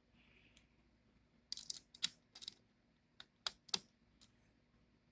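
Small screwdriver and screw clicking and tapping against a laptop's fan mount and chassis as the last fan screw goes in: a series of short, sharp clicks in two clusters, starting about a second and a half in and again about three seconds in.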